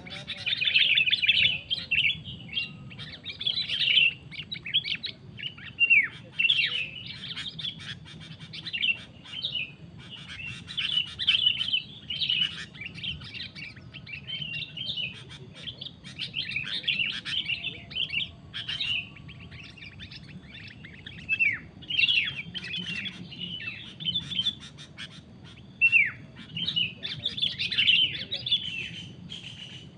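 Sooty-headed bulbuls calling: bursts of bright chattering chirps mixed with short downward-sliding notes, coming in quick succession.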